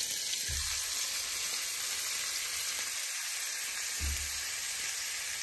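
Meat rolls sizzling steadily in hot fat in a frying pan. Two low thumps come about half a second and four seconds in.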